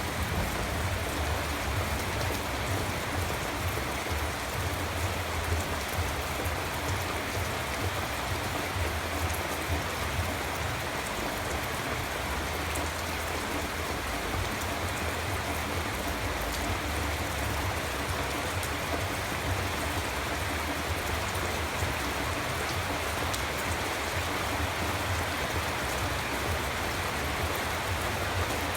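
Steady rain falling, an even hiss with scattered drop patter and a low rumble underneath.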